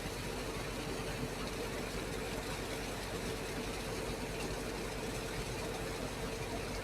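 Engine-driven water pump running steadily: a constant hum under an even rushing noise.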